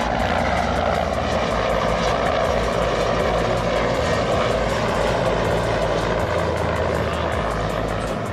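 Helicopter running, a steady drone of turbine engine and rotor noise.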